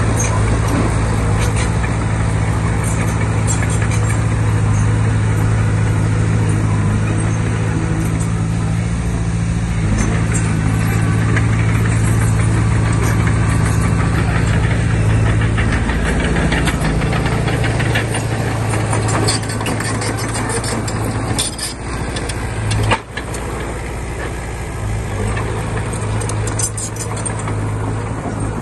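Bulldozer's diesel engine running steadily with scattered metallic clanking. The engine eases off about two-thirds of the way through, and a single sharp knock follows a few seconds later.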